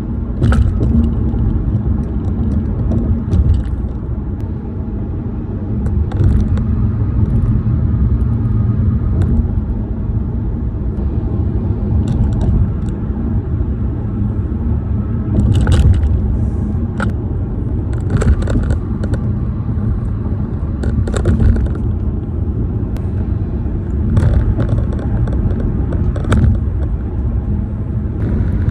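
Tire and road noise inside a car driving over bridge pavement: a steady low rumble, with sharp clicks and knocks every few seconds from joints and rattling interior plastics.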